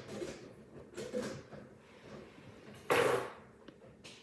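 Handling noises of a squishy toy: soft rustling, with a short brush about a second in and a louder one about three seconds in.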